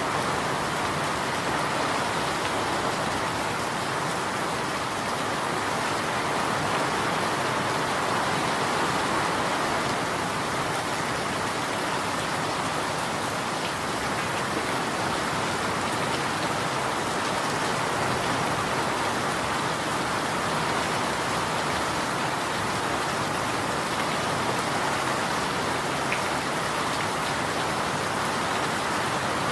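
Steady rain falling and pattering on surfaces, an even, unchanging hiss without thunder or other events.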